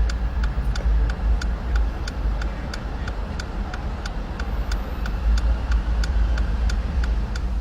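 Steady low rumble of road traffic, with a thin, even ticking about three times a second.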